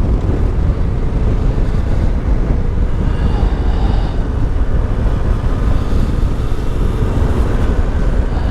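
Yamaha Ténéré 700's CP2 parallel-twin engine running steadily under way through an Akrapovic exhaust, with a heavy low wind rumble on the microphone.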